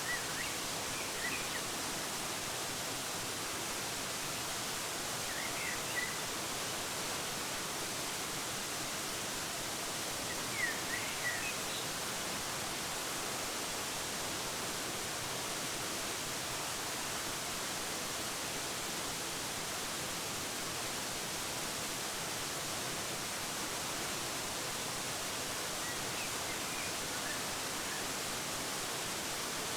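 Steady, even rush of a waterfall, with a few short bird chirps now and then and a little cluster of them about a third of the way in.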